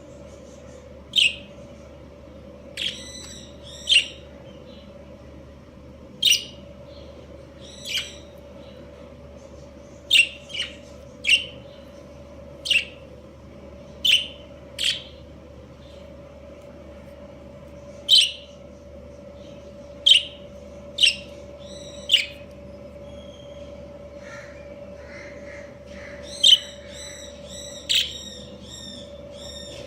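Budgerigars giving short, sharp chirps, one every second or two, some of them loud and piercing, with a few more warbled calls near the end. A steady low hum runs underneath.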